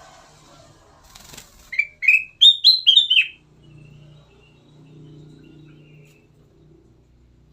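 Kutilang emas, a bulbul, singing a quick phrase of about eight short, clear whistled notes, each dipping slightly in pitch, about two seconds in. A brief rustle, like a flutter of wings, comes just before it.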